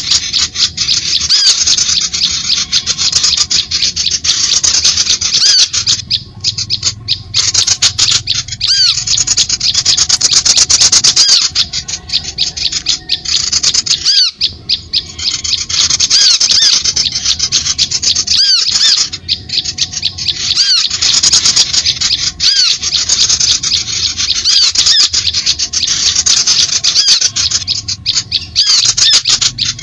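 Bird-lure recording of birds chattering and twittering densely and loudly: rapid high ticking notes mixed with short, repeated arching whistles, broken by brief pauses every few seconds.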